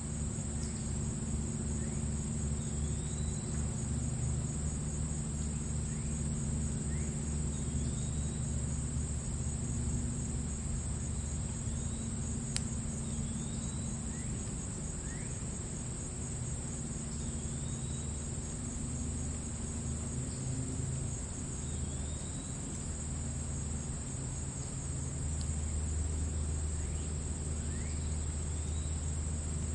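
Crickets trilling steadily in a high, unbroken band, while a bird gives short chirps every two to three seconds over a low steady rumble.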